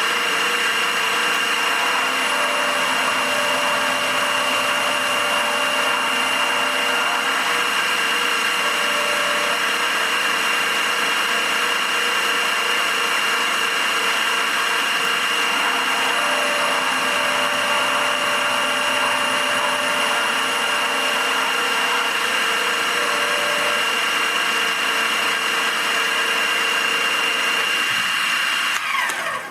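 Milling machine running steadily with a high whine while an end mill rounds the corners of a small metal part; it is switched off and winds down near the end.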